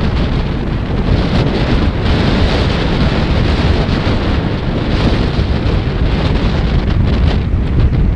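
Strong gusty typhoon wind buffeting the microphone in a loud, continuous low rumble, with heavy sea waves beneath it.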